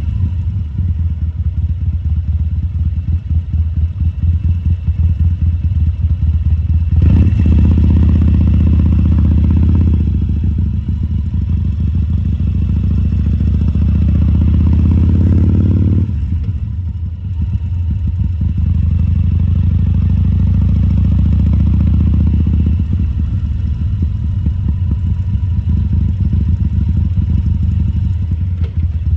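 2014 Harley-Davidson Sportster 1200 Custom's air-cooled V-twin running with a fast, even pulse. The engine speeds up sharply about seven seconds in, drops off about sixteen seconds in, then settles and runs on steadily.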